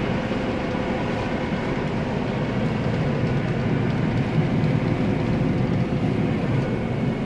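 Combine harvester running steadily: a dense, even machine noise with a faint steady whine on top.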